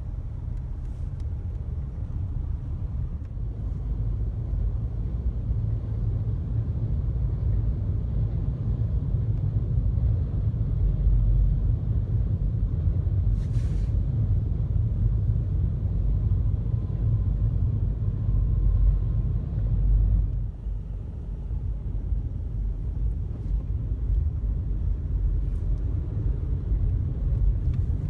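Steady low rumble of an electric suburban train crossing an elevated steel rail bridge, mixed with city street traffic, growing louder from about ten seconds in.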